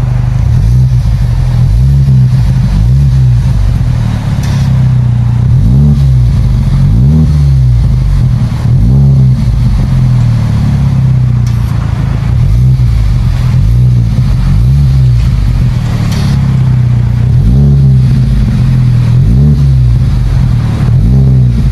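Tank 300's 2.0-litre turbocharged four-cylinder running loud through a custom exhaust with a valve, revved up and back down in short blips again and again, about one every second or two.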